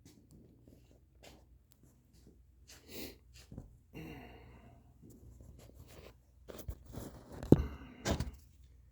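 Scattered knocks and clunks, the loudest a sharp thump about seven and a half seconds in, with no engine running.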